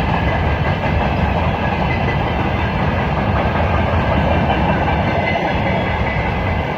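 Russian freight train rolling past, its wagon wheels clattering steadily over the rails.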